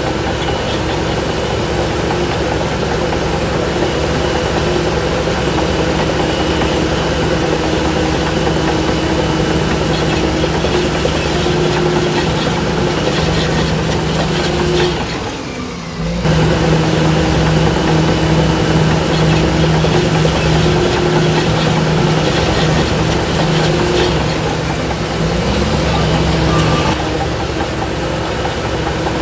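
Heavy diesel engine of a crawler bulldozer running steadily under work. About halfway through, its sound drops off for a moment and then comes back louder.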